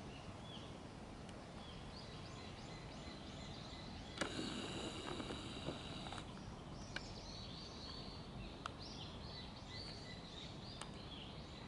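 Quiet outdoor garden ambience with small birds chirping in short repeated high notes throughout. A louder stretch of noise with a high buzz comes from about four to six seconds in, and a few faint ticks are scattered through.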